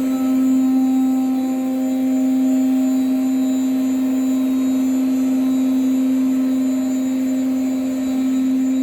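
CNC router spindle motor running at a constant speed: a steady, unchanging whine with a few fainter higher tones above it.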